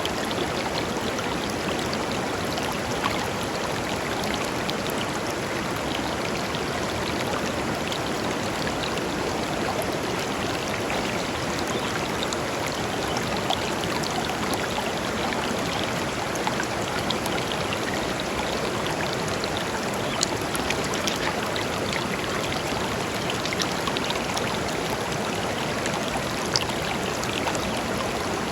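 A river flowing steadily over stones: an even rush of water with small splashes and drips standing out here and there.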